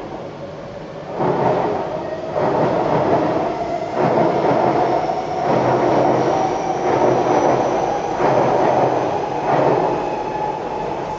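Kawasaki C151-series MRT train running on the track: loud rumbling and rattling that swells in repeated surges about every second and a half, with a faint high whine above, the kind of jolting that the uploader blames on track distortions left after concrete sleeper replacement.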